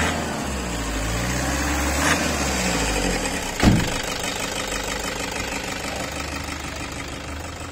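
Car engine idling steadily, with a single heavy thump about three and a half seconds in.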